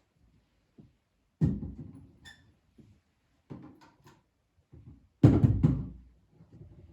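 Household knocks and thuds in a small room, like cupboard doors shutting or things being set down: two heavy thuds, about a second and a half in and just past five seconds, with lighter knocks and a brief ringing clink between them.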